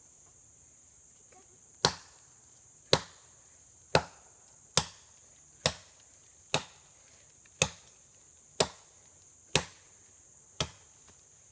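An axe chopping into a tree trunk: ten sharp, evenly paced strikes, about one a second. A steady insect chirring runs behind them.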